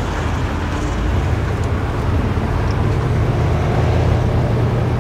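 Small-block Chevy V8 in a 1962 Cadillac Sedan DeVille pulling the car along, heard from inside the cabin with road noise, its note growing louder from about a second in. The ignition timing has just been advanced a little at the distributor, and it runs way better for it.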